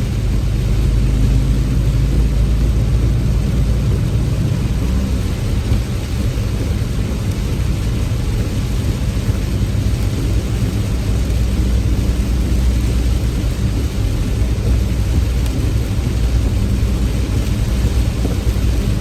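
Heavy rain falling steadily, with a deep, continuous low rumble underneath.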